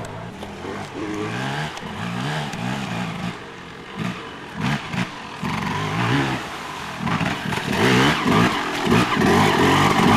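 Dirt bike engines revving up and down as racers ride the course, growing louder near the end as a bike comes close.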